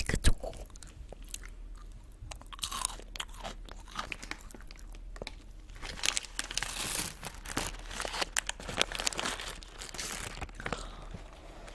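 Close-miked crunching and chewing of a candy with a milk-chocolate filling, sharp crunches spaced out at first. From about halfway, a dense crackle as a plastic snack packet is handled and torn open.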